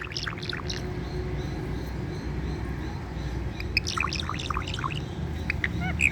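Indian ringneck parakeet giving short, quick chirps and clicks in a few small clusters, over a steady low background rumble.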